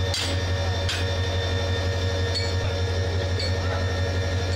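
Steady low hum of a standing diesel train, with two sharp metallic clinks in the first second from the coupler between two coaches being handled.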